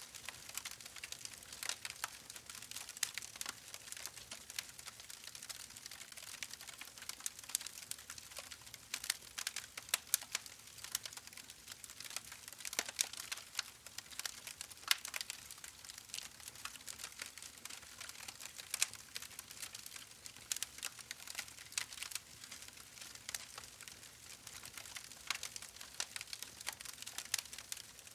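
Fire in a fireplace crackling: irregular sharp pops and snaps over a soft steady hiss, a few pops louder than the rest.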